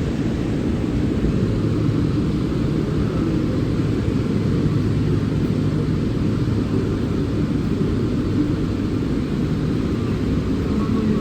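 Steady low rumble of railway platform ambience, even throughout with no distinct events.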